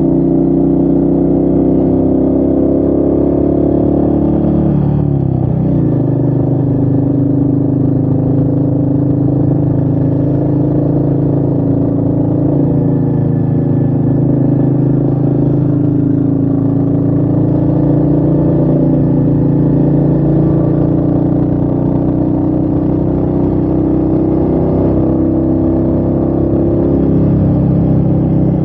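Royal Enfield Meteor 350's single-cylinder engine running under way, with wind noise. About five seconds in the engine pitch drops sharply and then settles, and it pulls on steadily after that.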